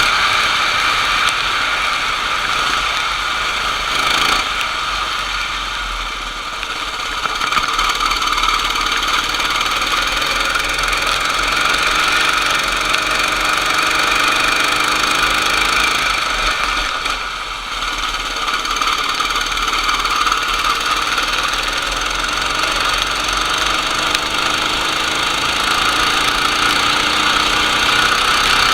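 Kart engine running hard at steady high revs, easing off briefly about four seconds in and again about seventeen seconds in.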